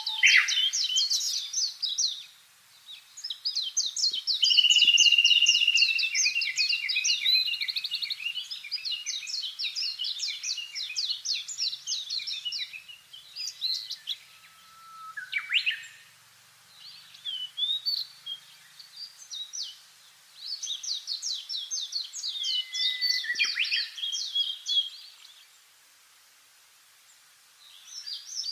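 Songbirds singing in rapid trilled phrases a few seconds long, separated by short pauses.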